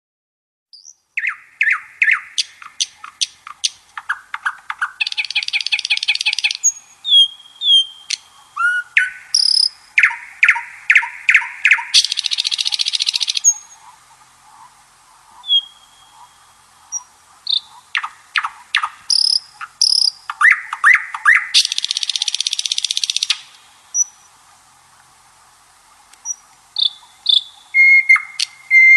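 Songbirds chirping and calling: quick sharp chirps and short whistled notes, broken by three longer buzzy trills of about two seconds each.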